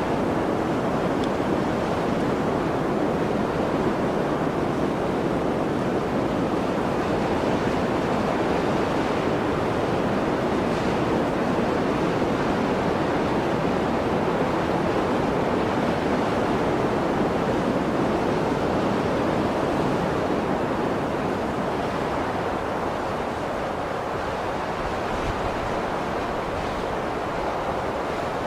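Blizzard wind blowing in a steady, dense rush, easing slightly in the last third.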